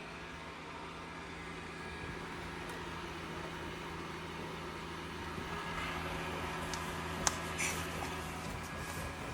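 Robot vacuum cleaner running with a steady motor hum, with a couple of short sharp clicks about seven seconds in.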